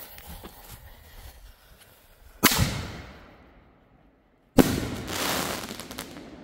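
Aerial firework: a fading fuse hiss, then two loud sharp bangs about two seconds apart, each trailing off in a long echo.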